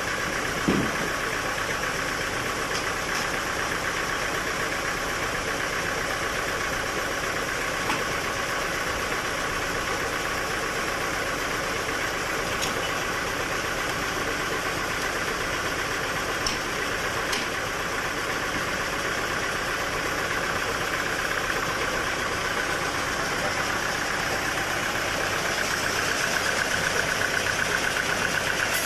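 Sawmill machinery running steadily, a continuous mechanical drone. A single knock sounds just under a second in, and the sound grows slightly louder near the end.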